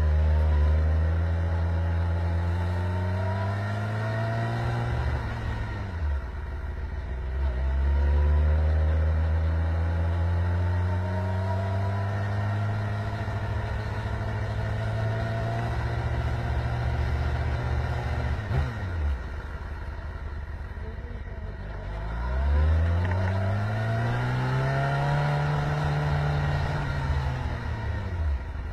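Motorcycle engine revving in three long swells: the pitch climbs, holds high for several seconds and drops back. The middle swell falls away sharply around 18 to 19 seconds in.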